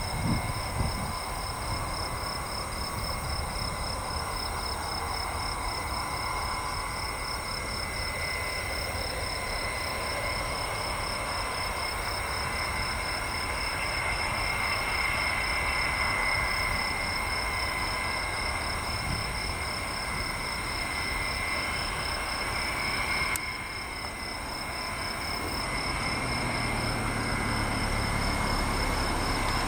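Boeing E-8 JSTARS's four turbofan engines running at low power, a steady jet whine over a low rumble, dipping briefly about 23 seconds in before a lower tone joins.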